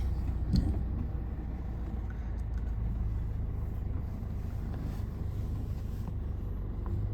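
Steady low engine and road rumble of a moving bus, heard from inside, with one short knock about half a second in.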